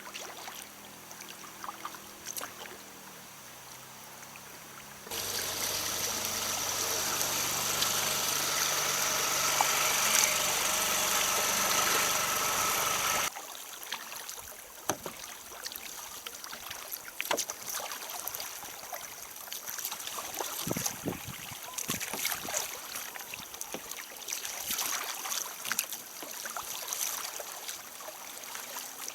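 Water sounds from kayaking: paddle splashes and water slapping a kayak's hull. Roughly the middle third is covered by a louder, steady rushing noise with a faint hum that starts and stops abruptly.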